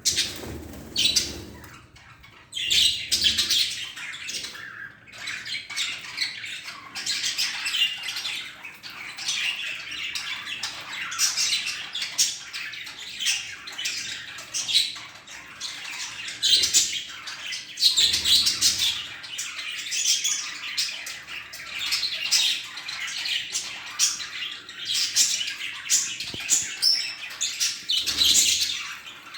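Budgerigars chattering, chirping and squawking without a break, many short calls overlapping, with a few brief low thumps.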